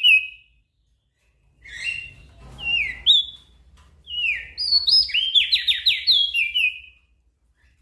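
Opior jambul (crested white-eye) singing in phrases of sliding whistled notes. A phrase trails off at the start, a few notes follow after a pause of about a second, and a longer run of quick, falling notes comes about four seconds in.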